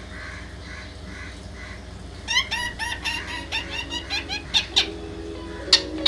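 Indian ringneck parrot chirping: a quick run of short, rising chirps starts about two seconds in, followed by sharp squawks.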